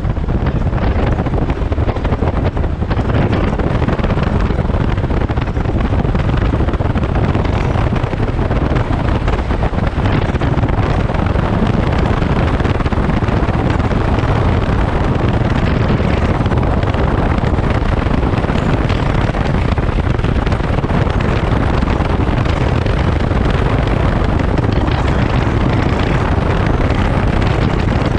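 Daelim Daystar 125 V-twin motorcycle engine running steadily at cruising speed, heavy wind noise on the microphone mixed in.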